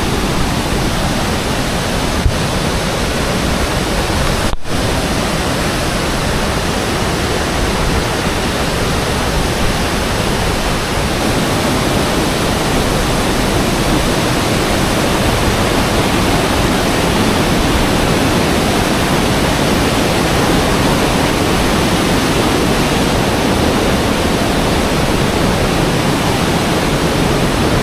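Waterfall, a steady loud rush of falling water, with a brief dropout about four and a half seconds in.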